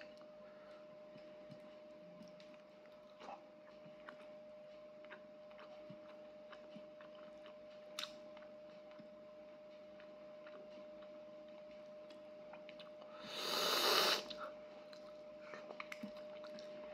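A person chewing quietly with scattered small clicks while picking at fish with the fingers, over a faint steady hum. About thirteen seconds in comes a louder hissing burst lasting about a second.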